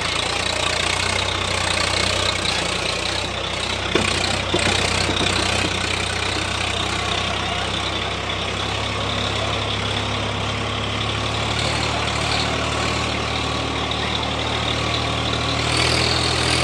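Swaraj 855 tractor's diesel engine running steadily at an even speed, with one sharp click about four seconds in.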